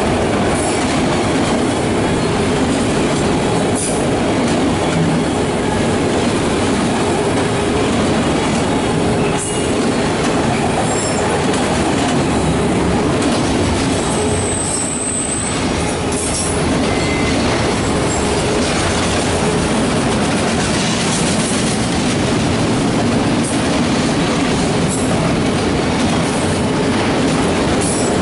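Empty autorack freight cars rolling past close by: a steady rumble of steel wheels on rail with scattered clicks over the rail joints. A brief high wheel squeal comes about halfway through.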